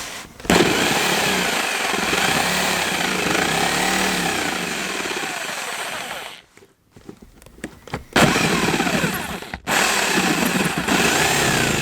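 Jigsaw cutting a small circular hole in a desk top, motor pitch rising and falling as it works the tight curve. It runs, stops about six seconds in, and starts cutting again about two seconds later.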